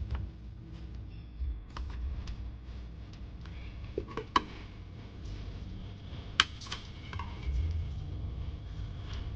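Scattered light clicks and taps of small hard parts being handled, over a low rumble; two sharper clicks stand out about four and six seconds in.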